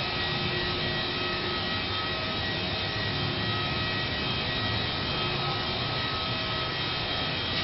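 A steady, even drone with a few faint steady tones in it, unchanging throughout.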